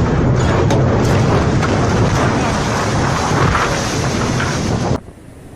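Storm wind at sea buffeting the microphone aboard a ship, a loud steady rush. It cuts off suddenly about five seconds in, leaving a much quieter wind with a few faint knocks.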